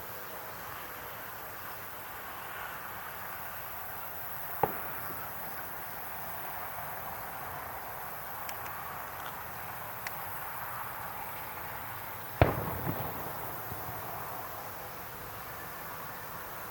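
Fireworks shells bursting: a sharp bang about five seconds in and a louder one near two-thirds of the way through, followed by a short crackle, over a steady background hiss.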